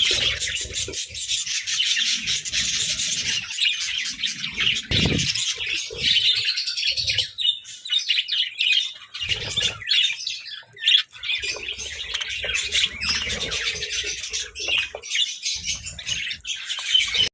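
Budgerigars chattering and chirping continuously in rapid, overlapping warbles, with a few dull low thumps.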